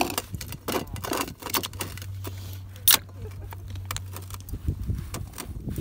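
Clinks and rattles of small hard objects being handled, with one sharp clack about three seconds in, over a low steady hum that stops about four and a half seconds in.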